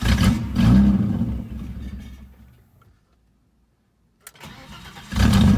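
Car engine sound that starts suddenly, swells, and fades away over about two and a half seconds. After a silence and a click, a second burst starts near the end.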